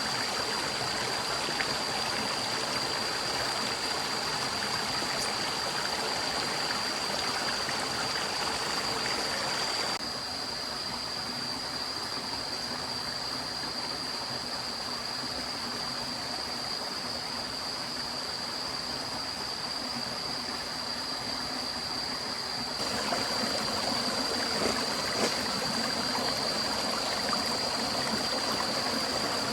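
Running stream water, a steady rushing and gurgling with a constant thin high-pitched tone above it. It turns slightly quieter about ten seconds in and returns to its fuller level about thirteen seconds later.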